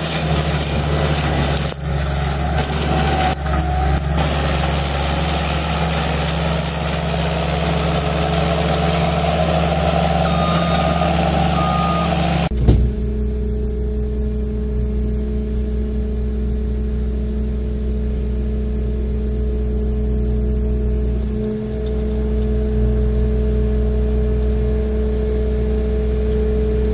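Heavy machinery engines running: loud engine and mechanical noise, then a sudden cut about twelve seconds in to a steadier, lower engine hum.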